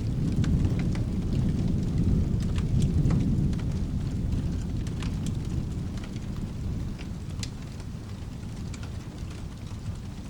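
Rolling thunder rumbling low, loudest in the first half and dying away after about six seconds, over steady rain with scattered sharp crackles.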